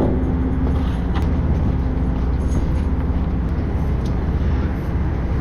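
Prawn trawler's engine running steadily, a constant low hum with a noisy rush over it.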